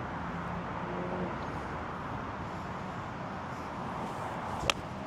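Wind rushing on the microphone, then about four and a half seconds in a single sharp crack of a golf club striking the ball on an approach shot played into the wind.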